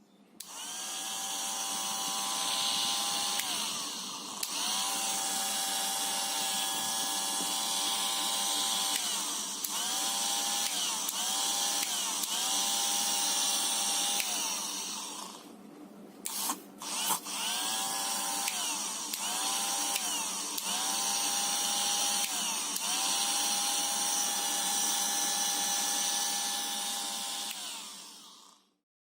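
A small electric motor, drill-like, whining steadily in repeated runs of one to two seconds each, with a brief break and a few clicks about 16 seconds in.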